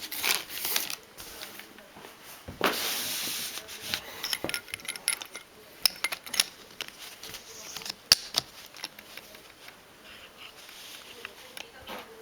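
Plastic toy track and launcher being handled, giving a run of light clicks and rattles. A rushing noise lasts about a second, starting around three seconds in, and one sharp click comes about eight seconds in.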